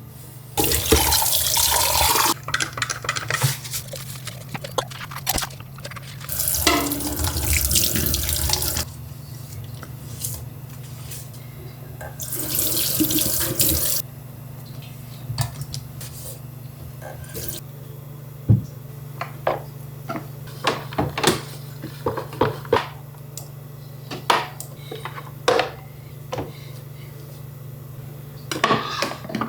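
Tap water running into a sink in three short bursts of a couple of seconds each, turned on and off. In between and afterwards come scattered light knocks and clinks of things being handled at the sink.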